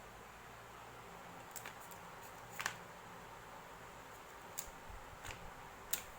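A few scattered light clicks, about five, over a steady low hiss; the sharpest comes a little before halfway through.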